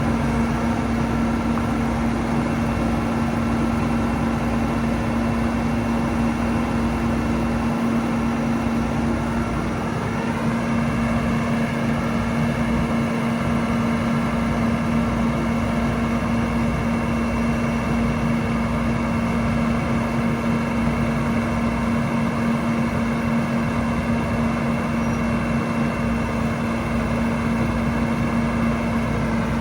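A Kenworth T370 work truck's PACCAR PX-8 diesel running steadily, with a constant hum and higher whining tones; about ten seconds in, the higher tones rise a little in pitch and then hold steady.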